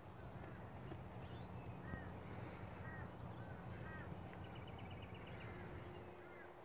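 Birds calling in the background: short arched chirps repeated about once a second, with a brief rapid trill a little over four seconds in, over a steady low hum.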